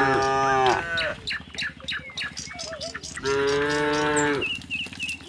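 Domestic cows mooing: two long, low calls, one fading out about a second in and another starting just past the three-second mark.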